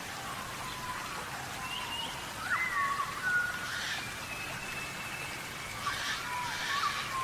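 Birds dust-bathing in sand: short whistled chirps and calls, some sliding up or down, over a pattering of flicked sand, with a couple of louder rustling bursts of sand in the middle and near the end.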